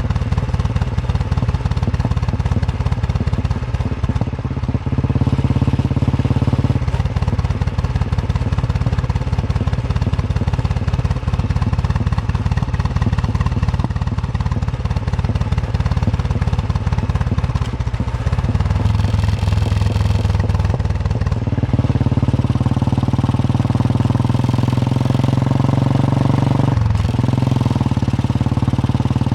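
Royal Enfield Bullet 350's single-cylinder engine thumping as the motorcycle is ridden. Its pitch steps up or down a few times with changes of throttle and gear, and there is a brief break near the end, as at a gear change.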